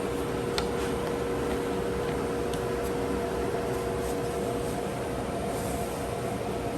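Steady mechanical hum with a constant mid-pitched tone, broken by a few faint clicks.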